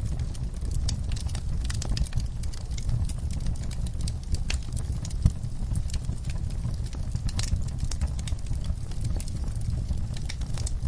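Wood fire burning in a fireplace: a steady low rumble of flames with frequent irregular crackles and pops, one sharper pop a little past halfway.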